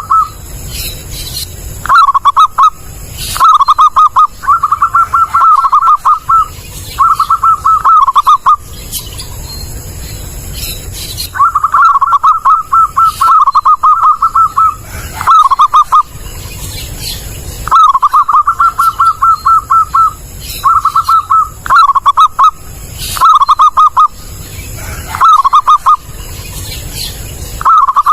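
Zebra dove (perkutut) cooing: phrase after phrase of quick, staccato coos, each phrase lasting about half a second to two seconds, with short pauses between them. Faint high-pitched chirps sound in the background.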